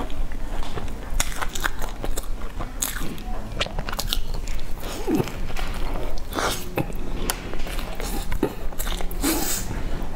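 Close-up biting and chewing of a crispy, crumb-coated fried bun filled with melted cheese, with many short crunches throughout.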